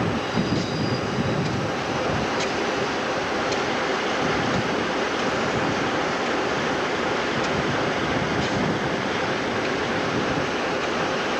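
Train moving through the station with a steady rumble, and a few sharp clicks from the wheels over rail joints.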